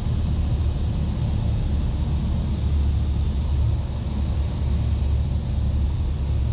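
Cessna 172's piston engine and propeller droning steadily in the cockpit, a constant low hum with no change in power.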